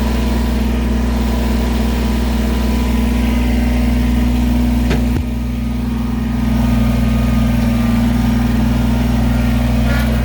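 An engine idling steadily at an even pitch. About five seconds in there is a short falling whine and a knock, and the level dips for a moment before it settles back.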